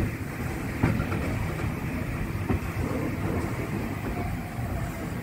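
Steam-hauled passenger carriage running along the track, heard from an open carriage window: a steady rumble of wheels on rail with a few sharp clicks about a second in and again midway.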